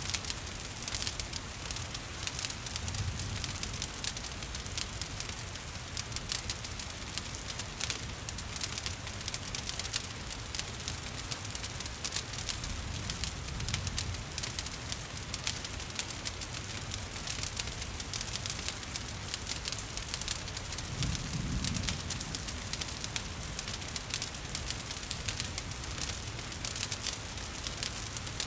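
Wood fire crackling with many small pops over a steady hiss of rain, with a soft low rumble swelling briefly a little past two-thirds of the way through.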